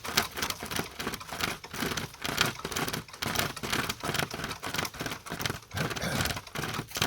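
Sportsman pocket chainsaw, a 36-inch hand-pulled cutting chain, rasping through a small tree trunk in quick back-and-forth strokes.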